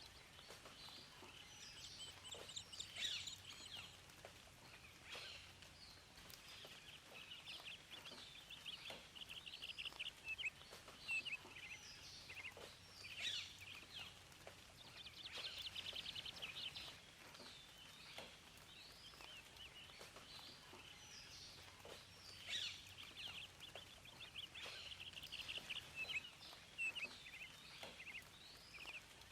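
Several songbirds singing together, a steady chorus of overlapping chirps, trills and short whistles, faint against a soft background hiss.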